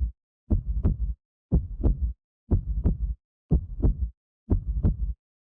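A heartbeat-like double thump, lub-dub, repeating steadily about once a second with silence between beats.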